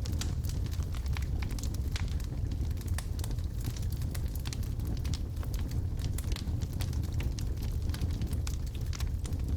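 Wood logs burning in a fireplace: a steady low rumble of the fire with frequent sharp crackles and pops scattered throughout.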